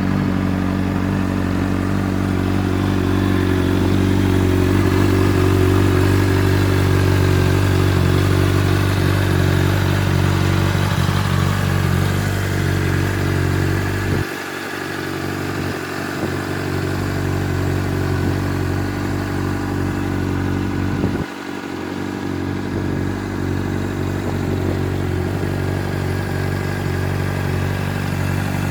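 Honda CBR600RR's inline-four engine idling steadily, with two brief dips in level about halfway through and about three-quarters of the way through.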